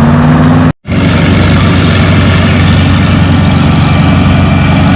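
Old farm tractor engines running steadily with a loud, deep rumble. The sound cuts out completely for a moment about a second in, then carries on unchanged.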